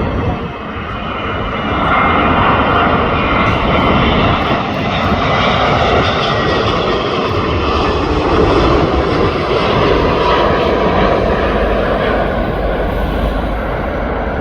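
Airbus A380-861 landing, its four Engine Alliance GP7200 turbofans running as it passes. It is a loud, steady jet roar with a whine above it, growing louder about two seconds in and holding.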